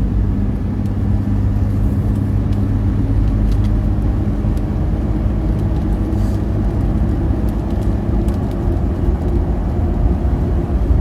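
Steady road and engine noise of a car driving at highway speed, heard from inside the cabin: a low, even rumble.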